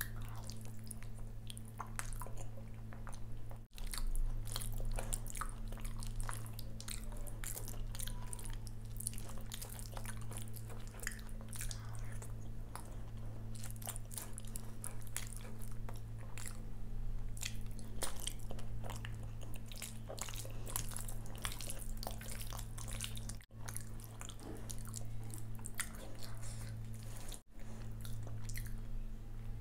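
Close-miked eating by hand: wet chewing and biting of curd rice with vegetable bhaji, with crisp crunches and frequent clicky mouth sounds. A steady low hum runs underneath.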